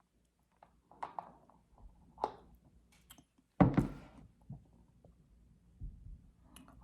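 Eating sounds: scattered small mouth and utensil clicks, with one loud thump about three and a half seconds in.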